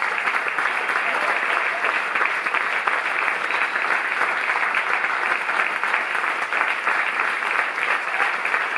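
Audience applauding steadily, many hands clapping at once in a dense, even stream.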